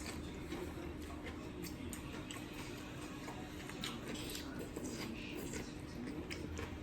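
Light, scattered clicks and taps of spoons against dishes while soup is being eaten, over a steady low hum.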